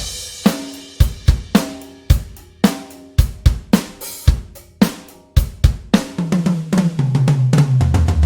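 Toontrack EZDrummer 3 sampled acoustic drum kit playing a groove of kick, snare, hi-hat and cymbals, opening on a cymbal hit. About six seconds in it breaks into a fill down the toms, each hit lower than the last, the low toms ringing on.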